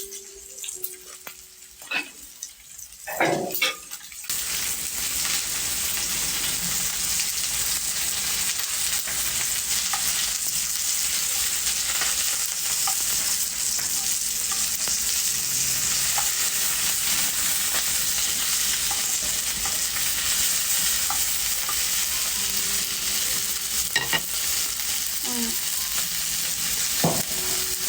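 Food frying in hot pork lard in a pan: a steady sizzle starts suddenly about four seconds in, as food goes into the hot fat, and keeps on. A few light clicks of a utensil against the pan come before it and near the end.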